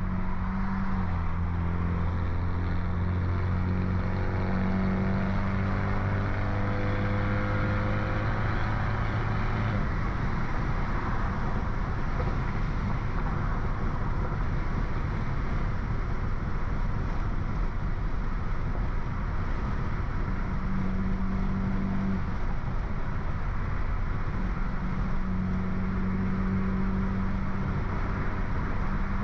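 BMW F30 328i's turbocharged four-cylinder running through a stage 2 downpipe and straight-piped exhaust at a steady cruise. The engine note rises gently in the first few seconds, turns rougher and less steady for about ten seconds in the middle, then settles back to a steady tone.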